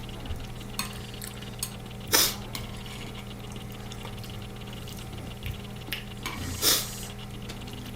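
Eating ramyeon from a ttukbaegi: light clinks of a spoon or chopsticks against the earthenware pot and bowl, and two short, loud slurps of noodles, about two seconds in and near the end.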